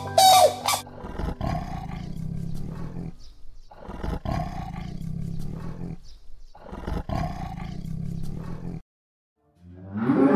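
A big cat roaring: three long, low roars of about two seconds each, with short pauses between them.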